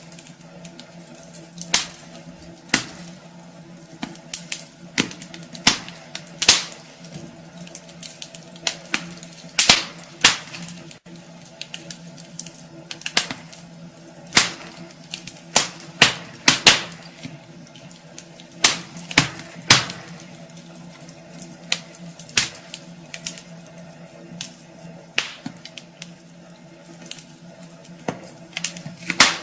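Wood fire crackling in a fireplace: irregular sharp snaps and pops, some in quick clusters, over a steady hiss, with a faint steady hum underneath.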